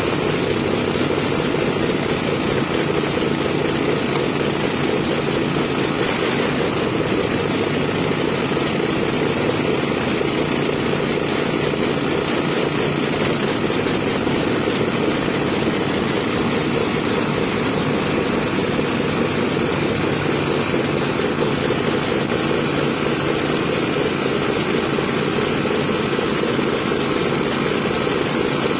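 A large engine running steadily at a constant pitch, making a continuous loud drone.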